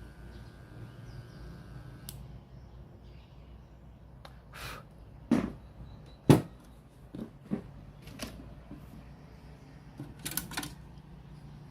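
Scattered knocks and clicks of things being handled at a repair bench, the loudest about six seconds in, over a steady low hum.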